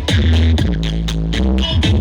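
Electronic dance music played very loud through a large street sound system with 25-inch subwoofers, a heavy bass line dominating. It has a steady beat and falling bass sweeps that repeat about every two seconds.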